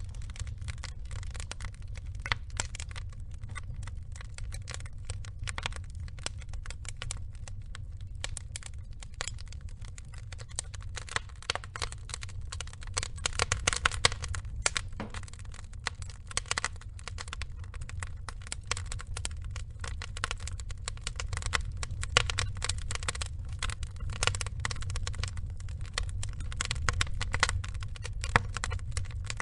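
Log fire burning: dense, irregular crackling and popping of burning wood over a steady low rumble of flames, with a busier spell of louder pops about halfway through.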